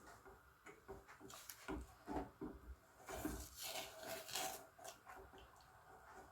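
Faint, irregular scraping and tapping of a utensil in a saucepan as a lemon mixture is stirred over the heat.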